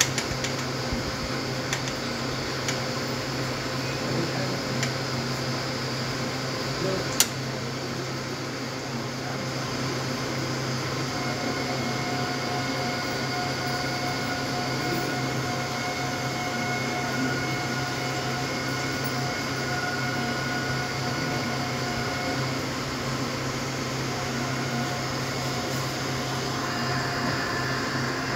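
A passing train's coaches and flat wagons running steadily over the rails, a continuous rumble with faint steady high tones through the middle. A single sharp click about seven seconds in.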